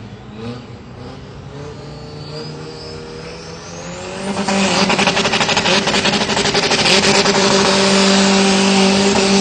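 Drag racing vehicle's engine at a drag strip: a high whine rises over the first few seconds, then about four and a half seconds in the engine comes in loud and is held at high, steady revs.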